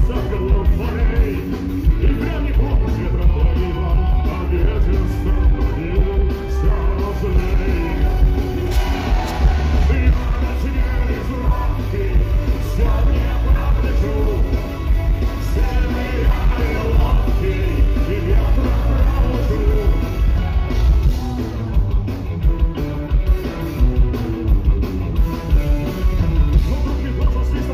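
A punk rock band playing live, with vocals sung over it.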